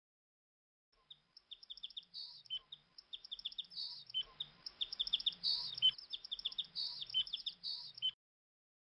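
Small songbirds chirping in a busy chorus of quick, high chirps. It starts about a second in and cuts off suddenly near the end.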